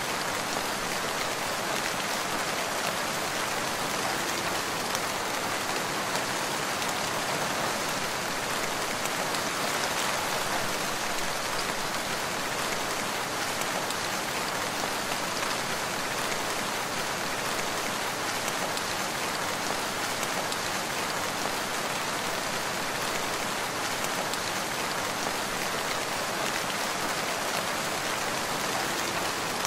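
Steady rain falling in a forest, an even hiss of drops without let-up or thunder.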